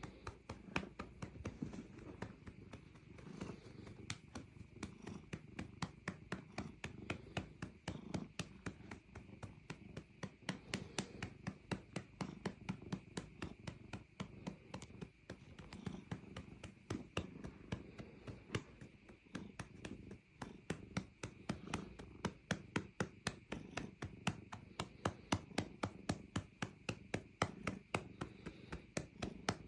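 A hand patting a cat's rump over and over, about three pats a second, while the cat purrs steadily underneath.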